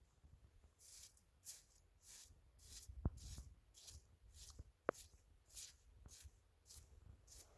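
Faint rhythmic scraping strokes, about two a second, with two sharp clicks near the middle.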